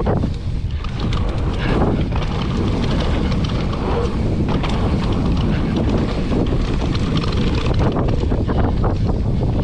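Wind buffeting the microphone of a mountain bike ride-along camera during a descent on a dirt trail, with tyres rolling over the ground and many small clicks and rattles from the bike over rough ground.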